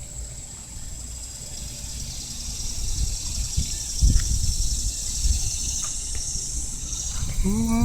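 A chorus of cicadas calling together: a steady, high-pitched, shrill drone that swells louder from about three seconds in.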